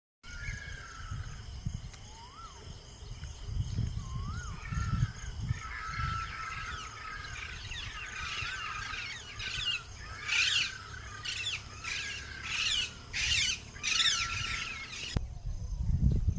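Several birds calling in a morning chorus: chirps and short whistles, then a run of loud, harsh squawking calls in the second half, over a low, uneven rumble. The birdsong cuts off suddenly about a second before the end.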